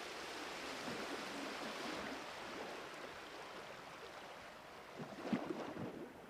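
Steady rushing background noise with no clear tone, like outdoor air or wind on a microphone, easing off gradually, with a few faint knocks near the end.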